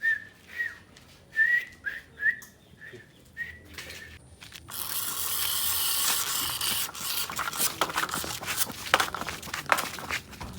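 Short, high whistled chirps, about two a second, for the first four seconds; then a steady hiss takes over, with scattered clicks and knocks in the last few seconds.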